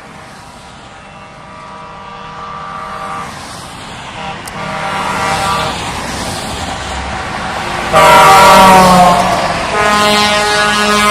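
Truck horns sounding in long held tones, several at once and overlapping, growing steadily louder, with a loud horn coming in about eight seconds in and another about two seconds later.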